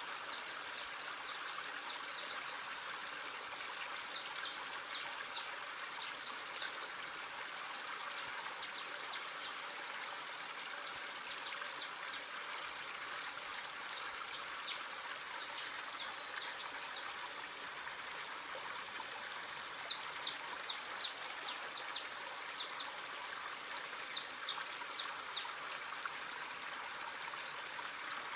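Many birds chirping continuously in short, high, falling chirps, several a second, over the steady sound of a running stream.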